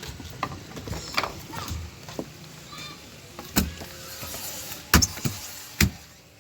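Irregular sharp knocks and thuds from heavy objects being handled, the loudest about three and a half, five and six seconds in, with a brief scraping hiss between them.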